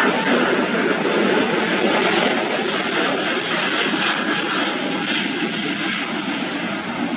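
Airliner engines rushing loudly as a plane passes; the noise is strongest in the first couple of seconds and eases slightly.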